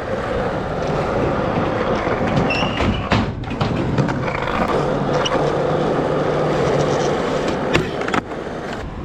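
Skateboard wheels rolling continuously, broken by a few sharp clacks of the board; after the last clacks, about eight seconds in, the rolling noise drops away.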